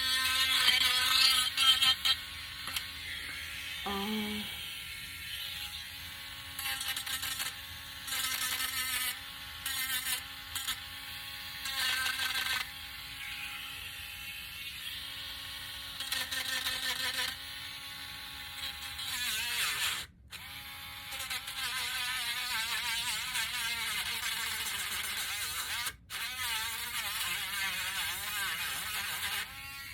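Small handheld electric sanding tool running with a steady, high buzzing whine, with repeated rasping stretches of a second or two as it is pressed against a wooden cutout, smoothing the edges and knocking off burrs. The motor pitch sags briefly under load near the middle, and a longer stretch of sanding runs through the last third.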